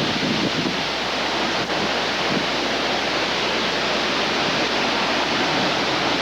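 Steady rushing roar of strong thunderstorm wind, with wind buffeting the microphone.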